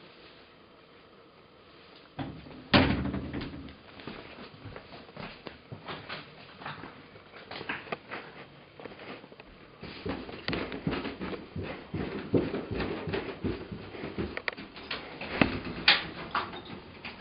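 A sharp knock like a door or cupboard bumping shut about three seconds in, then a long run of small knocks, clicks and rustles, with another sharp knock near the end.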